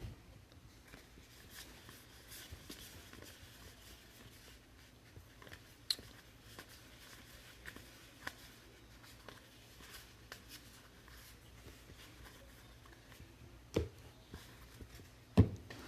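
Trading cards and packs being handled on a table: faint rustling and scattered small clicks, with two louder knocks near the end over a low steady hum.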